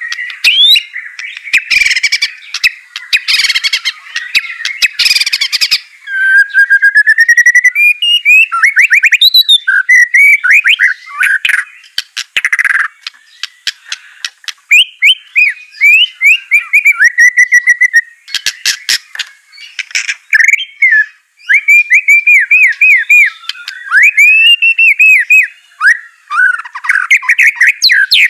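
White-rumped shama (murai batu) singing: varied fast phrases of sliding whistles and rapid trills, broken several times by harsh, rasping chatter.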